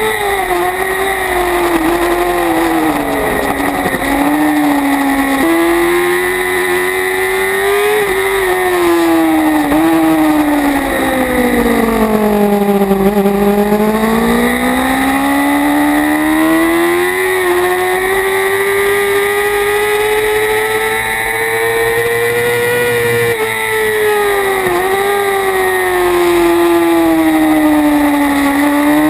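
Kawasaki Ninja ZX-6R inline-four sport bike engine at racing speed, heard onboard: the engine pitch falls as the rider slows for corners and climbs again under acceleration, with quick jumps at the gear changes. The deepest dip, about thirteen seconds in, is the slowest corner of the stretch.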